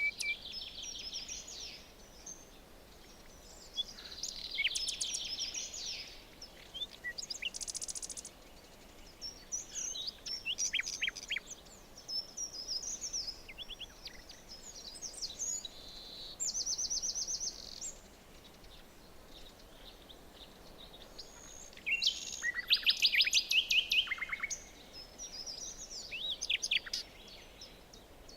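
Several songbirds singing in a forest: bursts of quick chirps, trills and short down-slurred whistles, coming and going with short pauses, over a faint steady background hiss. The loudest run of rapid trilled notes comes late on.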